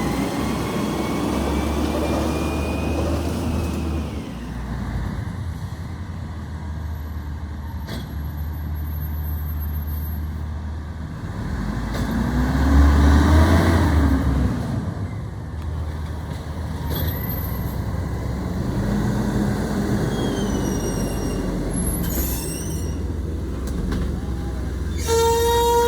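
Garbage truck's engine running, revving up and back down about halfway through. Near the end a loud steady tone starts.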